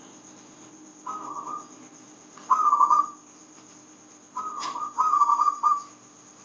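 Zebra dove (perkutut) cooing in three bursts of quick staccato notes, the last one longest, with a sharp click in the middle of it. A faint steady hum runs underneath.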